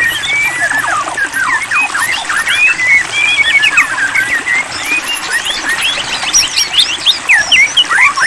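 White-rumped shama (murai batu) singing a fast, unbroken run of varied chirps and whistles, the notes sweeping quickly in pitch.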